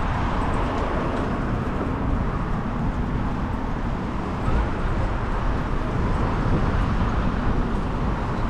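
Steady city traffic noise: a continuous low rumble and hiss of passing vehicles, with no distinct single events.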